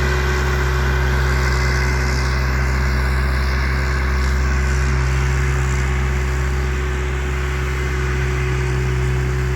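Bobcat machine's diesel engine running steadily at an even pitch.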